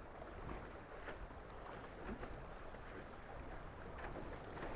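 Water rushing and splashing along the hulls of a Tornado racing catamaran under sail, with wind rumbling on the microphone and brief splashes of spray.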